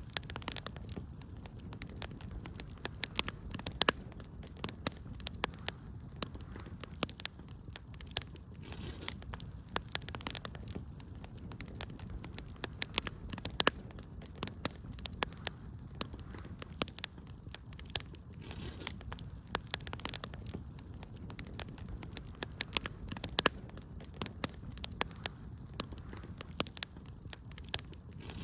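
Wood fire in a fireplace burning steadily, with frequent sharp irregular crackles and pops over a low rumble of the flames.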